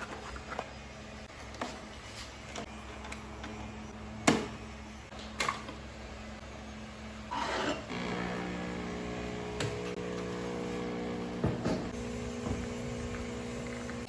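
A few sharp clicks and knocks, then about eight seconds in a small appliance motor starts up and hums steadily.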